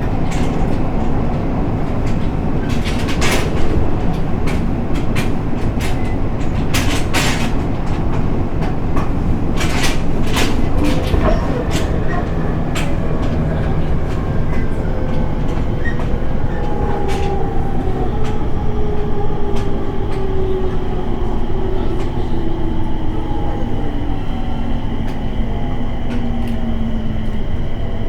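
Inside a JR 701 series electric train under way: a steady rumble of wheels on rail with a few sharp clicks over rail joints in the first half. From about halfway, the traction motor whine falls steadily in pitch as the train slows on the approach to a station.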